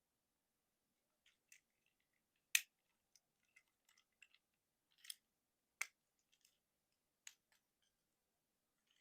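Hard plastic parts of a Transformers Motormaster action figure clicking and snapping as it is transformed from robot mode to truck mode: scattered sharp clicks starting after about a second, the loudest about two and a half seconds in.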